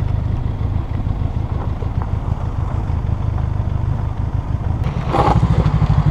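Motorcycle engine running under way with a steady low, pulsing note. About five seconds in there is a brief rush of noise, and the engine note then grows louder with a more even beat.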